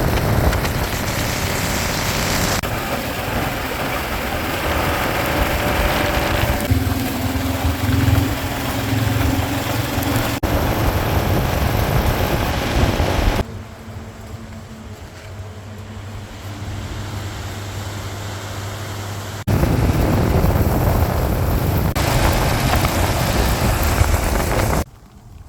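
Kawasaki KLR650 motorcycle running at speed, its engine rumble mixed with heavy wind noise. The sound changes abruptly every few seconds. A quieter stretch in the middle carries a steady low engine hum.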